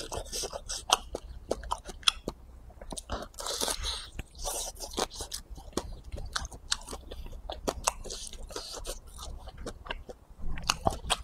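A person chewing a grilled sausage made of pork, chicken and duck, with many short mouth clicks and smacks throughout.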